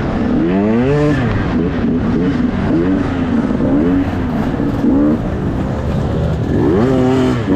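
Enduro dirt bike engine revving hard, its pitch climbing and dropping again and again as the throttle is worked and it goes through the gears, with a strong rise about a second in and another near the end.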